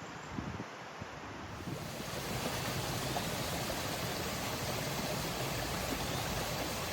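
Steady rushing of running water, swelling about two seconds in and then holding even.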